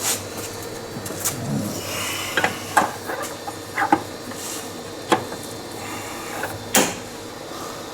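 Irregular clinks and knocks of bolts, parts and hand tools being handled during reassembly of a CVT clutch housing, with a brief rustle between them.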